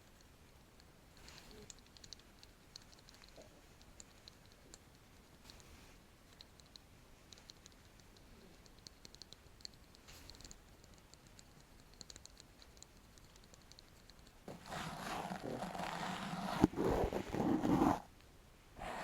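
ASMR tapping and scratching on an object held close to the microphone: faint scattered light clicks and taps, then loud, dense scratching for about three seconds near the end, breaking off briefly before starting again.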